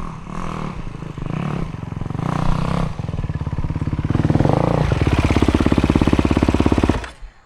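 2024 Honda CRF450's single-cylinder four-stroke engine revving and pulling under throttle, growing louder and rising in pitch, with a fast even pulse in the last couple of seconds before the sound cuts off suddenly near the end.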